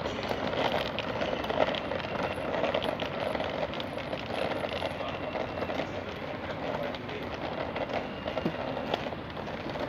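Steady rain falling: a continuous hiss dotted with the patter of drops.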